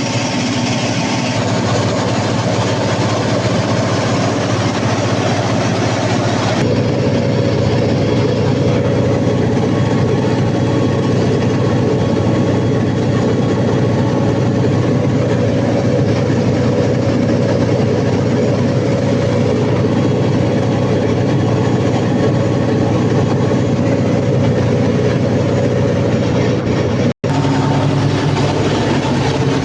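Cummins KTA50 sixteen-cylinder turbocharged diesel generator engine running steadily after its overhaul, a loud, even drone. It cuts out for an instant near the end.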